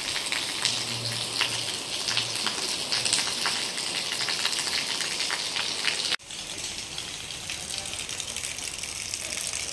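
Heavy rain falling steadily: a dense hiss of drops, briefly cut off about six seconds in.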